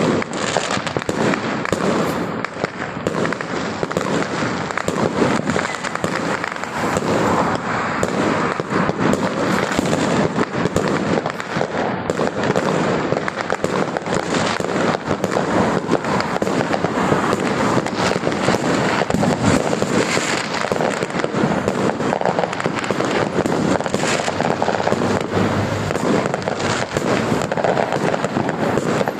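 Fireworks display: a dense, continuous barrage of loud bangs and crackles with no let-up.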